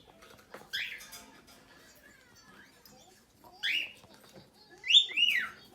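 Pet bird giving four short, high chirps, each sliding down in pitch: one near the start, one in the middle, and two close together near the end.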